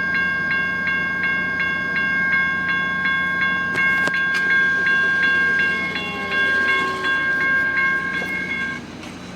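Railroad crossing warning bell ringing rapidly, about three strokes a second, loud and steady, then cutting off suddenly near the end as the crossing signal stops.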